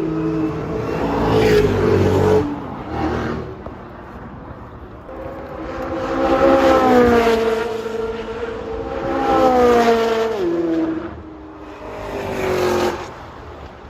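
Chevrolet Corvette C8 Z06's flat-plane-crank, naturally aspirated V8 revving hard through the exhaust in three loud pulls. Each pull rises in pitch and ends with a sudden drop in pitch and level, as at a gear change or lift-off.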